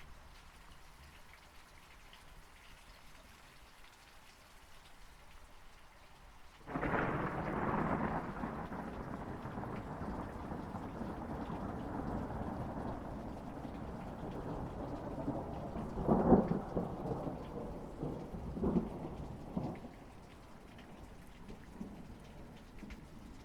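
Thunderstorm: steady rain falling, with a sudden loud thunderclap about a quarter of the way in that rumbles on for many seconds. Sharper cracks of thunder follow about two-thirds of the way through, before the rumble dies back to the rain.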